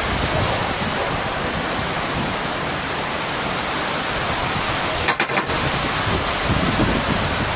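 Heavy rain falling as a steady, dense hiss, with a short dropout about five seconds in.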